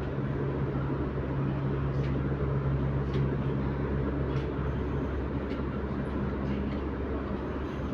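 Cabin noise of an MTR Tuen Ma Line C1141A train running: a steady low hum and rumble, with faint ticks about once a second through the middle.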